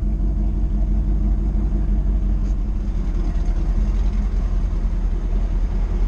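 Turbocharged 1988 Chevrolet Caprice's engine running steadily at low revs, a deep even rumble heard from inside the cabin.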